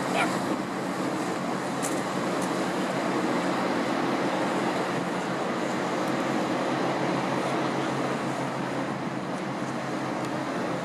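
Boat engine running steadily as a vessel passes: an even low drone over a constant hiss.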